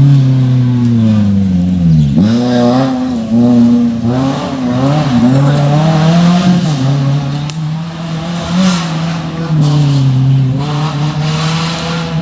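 Off-road race car engine running hard at high revs. Its pitch drops and climbs again at the start and about two seconds in, as the throttle is lifted and reapplied, then holds fairly steady.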